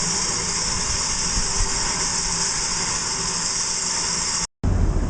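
A train running steadily, with a strong hiss over a rumbling engine. Near the end the sound cuts out for a split second and a lower, steadier engine hum comes in.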